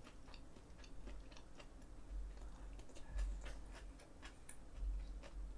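Quiet eating sounds: scattered soft clicks and taps, irregular, from chewing and from utensils on dishes.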